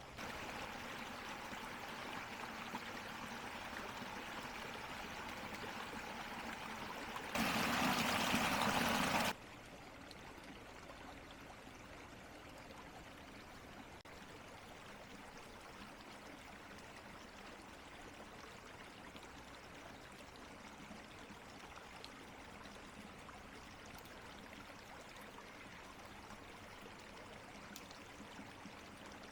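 Steady rushing noise like flowing water, with no distinct events. It is louder for about the first seven seconds, jumps much louder for about two seconds, then cuts off abruptly to a quieter, steady level.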